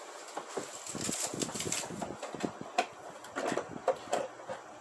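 Irregular clicking and clattering of small hard objects being handled, as from rummaging through tools for a pair of pliers.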